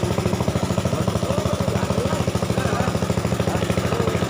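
Small wooden boat's single-cylinder engine running steadily, with a fast, even chug of about ten beats a second.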